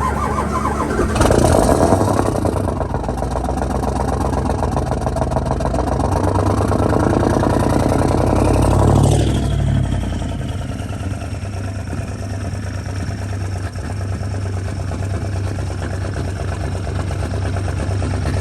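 Straight-piped 7.3L Powerstroke V8 diesel starting in deep cold: about a second in it cranks hard and fires, running loud and building for several seconds. Near the middle it drops back, with a falling whine, and settles into a steady, rough cold idle.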